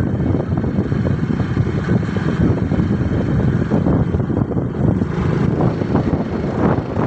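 Motorcycle underway: the engine runs steadily under heavy wind rumble on the microphone.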